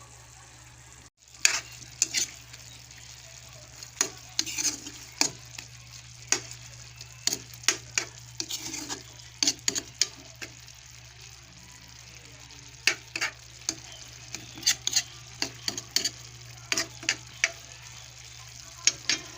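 Food frying in a pan: a faint steady hiss broken by irregular sharp pops and clicks.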